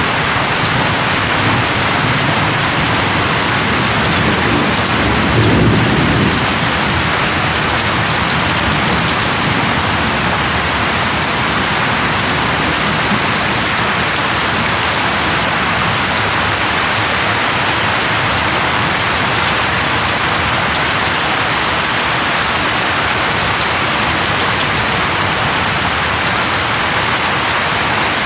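Steady rain falling, with a low rumble of thunder swelling and fading about five seconds in.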